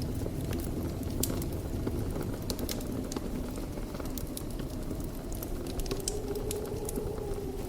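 Wood fire in a fireplace crackling: frequent sharp pops and snaps over a low, steady rumble of the flames. A faint whistle rises and falls near the end.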